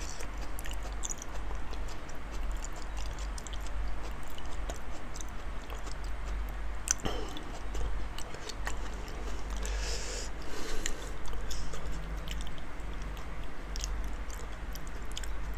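Close-up chewing of a large mouthful of raw salmon: wet mouth clicks and smacks scattered throughout, a few louder ones now and then, over a low steady hum.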